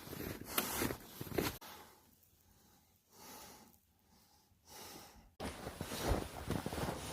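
Crunching footsteps in snow, broken by abrupt cuts, with a quieter stretch in the middle holding two soft breaths.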